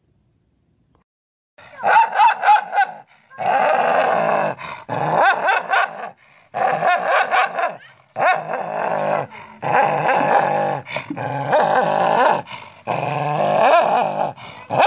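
Dog growling and grumbling in a run of drawn-out vocal bouts, each about a second long, with wavering pitch. The bouts start after a brief silence.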